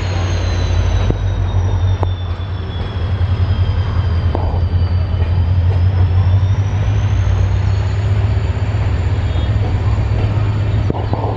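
A train running past on the track: a loud, steady low rumble of wheels on rail with a faint high whine that slides down and back up, and a few sharp clicks.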